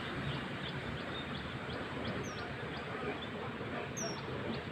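Small birds chirping over a steady background hiss: a few short, high, falling calls, one about two seconds in and another near four seconds, over faint rapid high ticking chirps.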